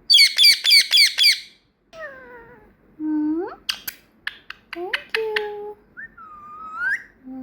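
Pet parrot calling: a quick run of about six harsh squawks, then a string of rising whistled calls broken by sharp clicks.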